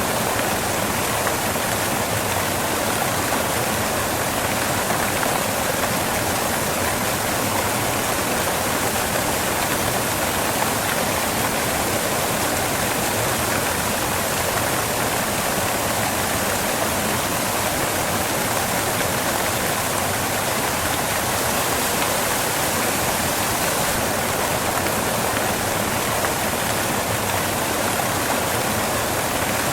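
Waterfall crashing onto rocks: a steady, unbroken rush of falling water, its high hiss a touch brighter in the last few seconds.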